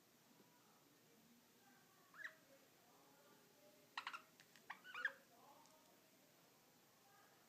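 Two budgerigars play fighting: a single short chirp, then about a second of quick, sharp chirps and clicks about four seconds in.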